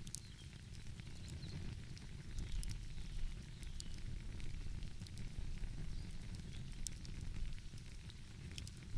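Wood fire crackling, with scattered sharp pops and snaps over a low steady rumble.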